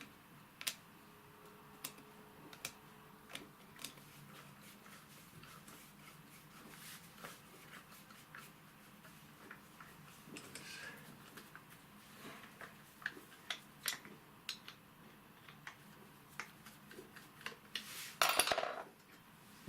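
Metal tools and starter-motor parts clinking and tapping against each other in scattered single knocks during disassembly, with a louder, longer metallic scrape near the end.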